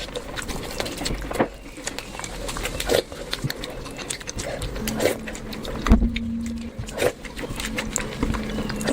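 Close-up eating sounds: chewing with many short wet mouth clicks and smacks. A faint steady low hum comes in about halfway through.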